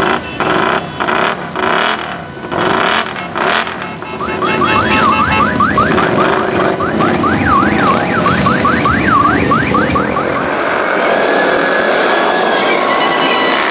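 Electronic vehicle alarm sounding over running motorcycle engines: from about four seconds in, rapid repeated rising whoops give way to faster up-and-down warbling, then a slower gliding tone near the end.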